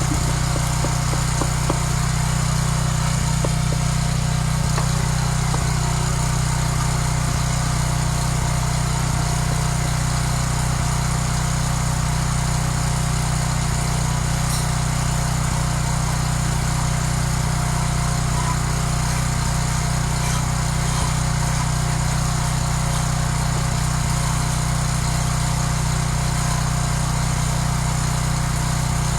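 A small engine running steadily at a constant speed, with a low, even hum.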